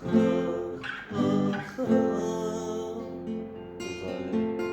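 Instrumental passage of a Kurdish song: a plucked string instrument playing a melody of single notes that ring on, the strongest struck near the start, about a second in and near two seconds.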